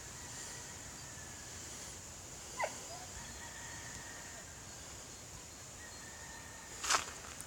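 A dog barking twice, single short barks: one about two and a half seconds in and a louder one near the end, over a faint steady high hiss.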